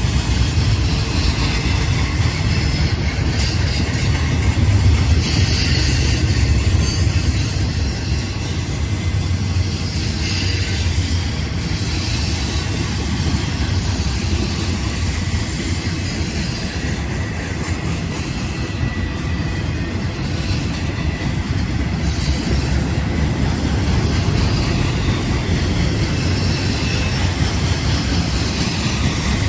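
Freight train rolling past: a steady rumble of steel wheels on rail, with some wheel squeal.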